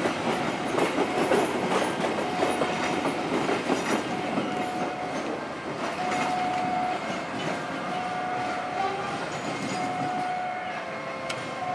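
Prameks multiple-unit train passing, its wheels clattering over the rail joints loudly for the first few seconds and then fading as it pulls away. A short steady tone sounds again and again, about once every second and a half.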